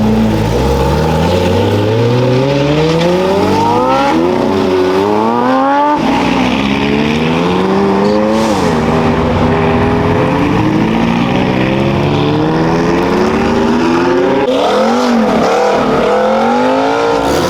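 Race car engines accelerating through the gears and braking down as cars pass on track. Several engine notes overlap, each rising in pitch, dropping at the shifts and climbing again, with a long rise over the first six seconds.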